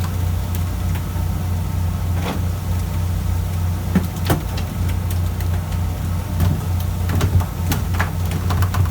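Fishing boat's engine running with a steady low hum, with scattered knocks and clicks over it, several close together near the end.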